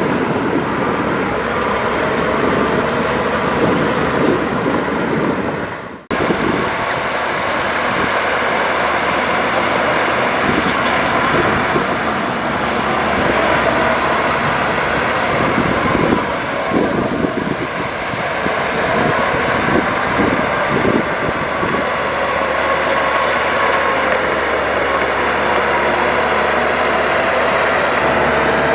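Heavy diesel earthmoving machinery running, a bulldozer and dump trucks working fill soil, with the engine note wavering. The sound sags and cuts off abruptly about six seconds in, then picks straight up again.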